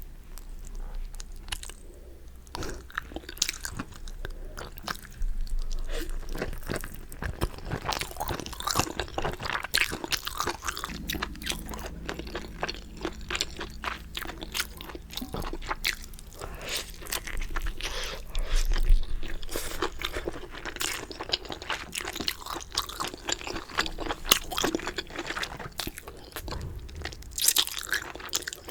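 Close-miked eating of 갈비레오 chicken: crisp crunching bites and crackles with chewing in between, irregular throughout and loudest about nineteen seconds in.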